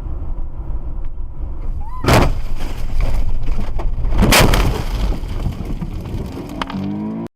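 Dash cam audio from a moving car: a steady low road and engine rumble, broken by two loud bangs about two seconds apart. Near the end comes a rising sound like an engine revving.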